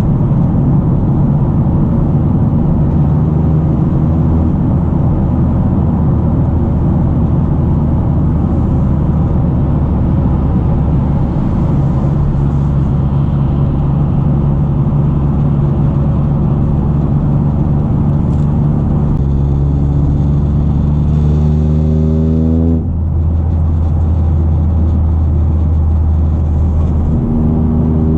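2023 Toyota GR Corolla's turbocharged 1.6-litre three-cylinder heard from the cabin through an FI Exhaust cat-back with its valves closed, cruising steadily. About two-thirds of the way in the engine pulls with a rising pitch, drops off suddenly, then holds steady and begins rising again near the end.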